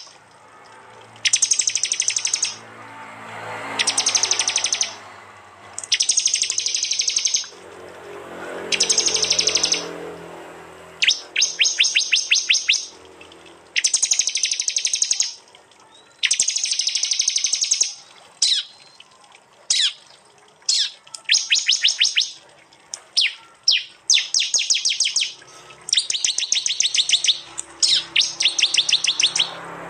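Prinias (prenjak) giving loud, harsh, rapid-fire chip trains, each burst about a second long and repeated every couple of seconds. Later in the stretch these give way to quicker single sharp notes and short trains.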